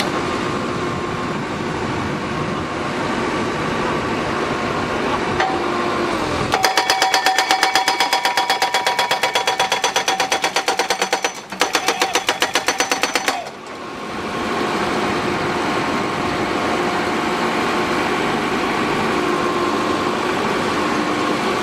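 Pile driver at work: its engine runs steadily, then about a third of the way in its hammer strikes the pile rapidly and evenly, about five loud metallic blows a second, for some seven seconds with a brief pause, before the engine alone carries on.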